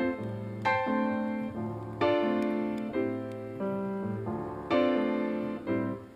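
Piano music: chords struck every second or two and left to ring and fade.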